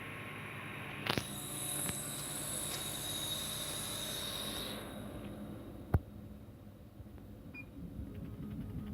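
Laser cutting machine and its chiller running with a steady mechanical hum. About a second in, a click sets off a hiss of air that cuts off near the middle, and a single sharp click comes about six seconds in.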